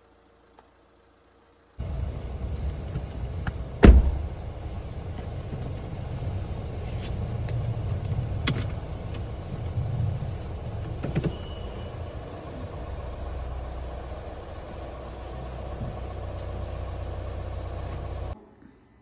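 A car's steady low rumble starts about two seconds in. Soon after comes one loud thud, a car door shutting, followed by a few lighter clicks and knocks. The sound cuts off abruptly near the end.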